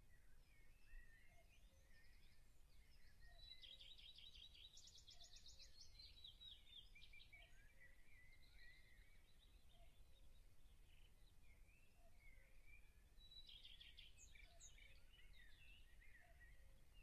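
Faint birdsong over a quiet low hum: scattered chirps, with two stretches of rapid trills, one a few seconds in and one near the end.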